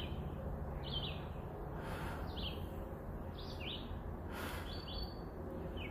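Woodland birds chirping: a short, high, falling call repeats several times, about every second or so. Under it runs a faint steady rumble of distant highway traffic.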